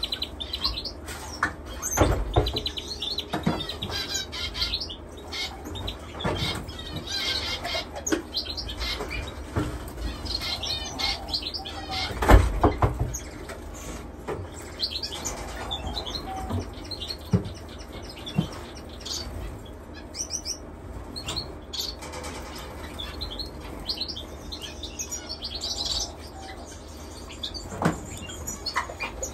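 Many caged finches chirping and twittering together, with wing flutters and scattered light knocks, and one louder knock about twelve seconds in.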